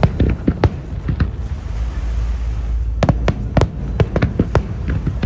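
Aerial fireworks bursting in rapid volleys of sharp bangs and crackles over a continuous low rumble. There is a cluster at the start, a lull of about a second and a half, then another dense volley from about three seconds in.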